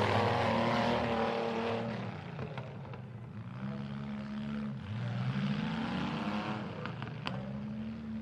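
Demolition derby vehicle engines revving, their pitch dropping about two seconds in and climbing again twice, with a few light knocks.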